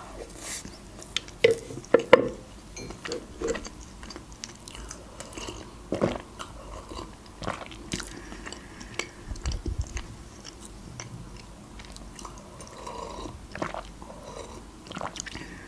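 A person chewing and swallowing a mouthful of cake, with soft wet smacks and scattered short clicks of the mouth.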